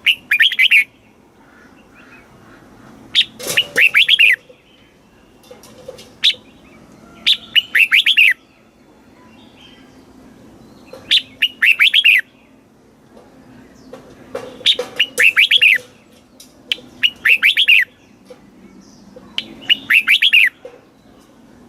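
Red-whiskered bulbul singing: short phrases of quick, warbling notes, repeated every two to three seconds.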